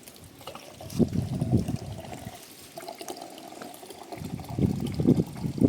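Water being poured, in two louder spells: one about a second in and one near the end.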